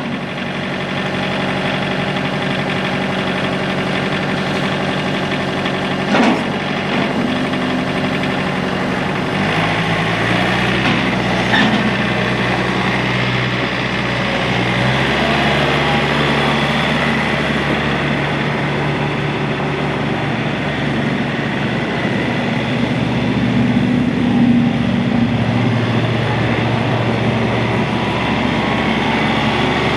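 The four-cylinder Yanmar diesel engine of a John Deere 4044M tractor running steadily. Its note shifts about ten seconds in and again a few seconds later as engine speed or load changes, with a couple of brief knocks.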